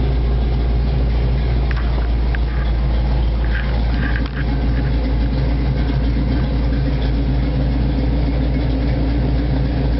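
Fuel-injected Chevy 350 V8 with a ProComp thumper cam, in a 1989 Jeep YJ Wrangler, idling steadily, already hot.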